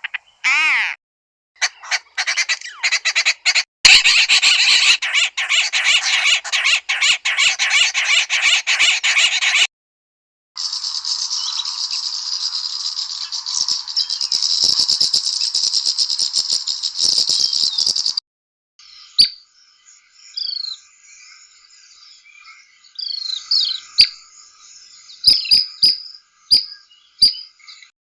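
Recorded wild southern African bird calls played as separate clips one after another. First comes a fast run of repeated notes for about eight seconds. After a short gap there is a dense, high, hissing chorus for about eight seconds. Then comes a different recording of scattered short chirps.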